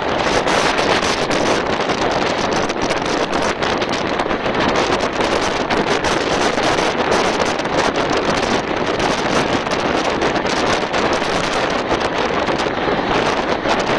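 Express train running at speed: a steady loud rush of wind and rolling track noise, dotted with many short clicks, with wind buffeting the microphone.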